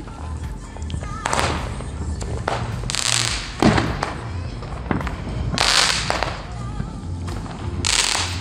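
Consumer ground fireworks going off: several short bursts of crackling hiss about every second or two, one with a sharp pop a little before the middle. Background music with a low beat plays underneath.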